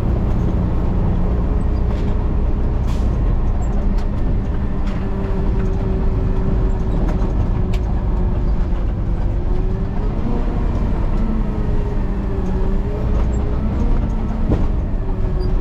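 Garbage truck driving, heard from inside the cab: a steady low rumble with a whine that wavers in pitch, rising about ten seconds in and again near the end.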